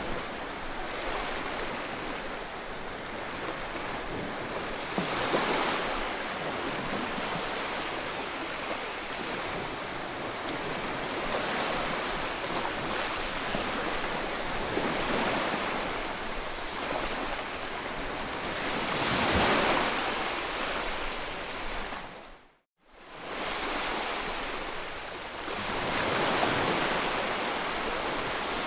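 Sea waves breaking on a shore: a continuous surf wash that swells several times, the loudest surge about two-thirds of the way through. Shortly after that the sound drops out abruptly for a moment, then returns.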